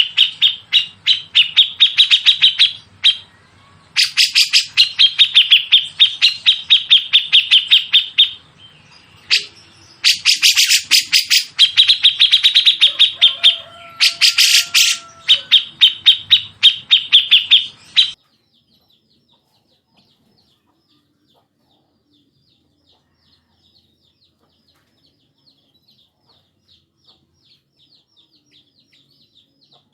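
A songbird sings fast, harsh rattling phrases of rapid high notes in three long bursts with short breaks between them. Its song stops about eighteen seconds in, leaving only faint high ticks.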